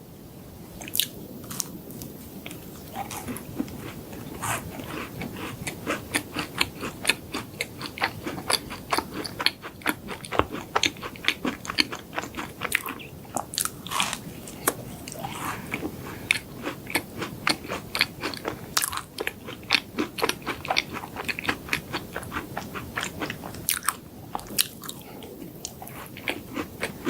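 Close-miked crunchy chewing and biting of chocolate desserts, with rapid irregular crackles all the way through.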